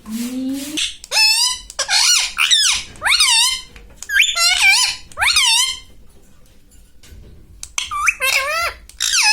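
Pet parrot giving a string of high-pitched, speech-like squawks, each call rising and falling in pitch. The calls come in two runs, separated by a pause of about two seconds.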